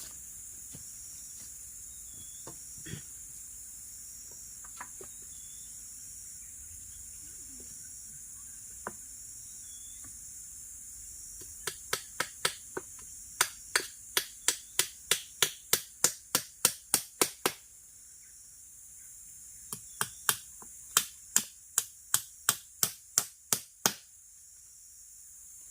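Steady high-pitched drone of forest insects such as crickets, with two runs of sharp, evenly spaced clicks, about three a second, in the second half.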